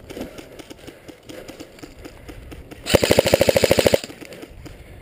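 Airsoft electric gun (AEG) firing one full-auto burst of about a second, roughly twenty rapid evenly spaced shots, about three seconds in, loud and close.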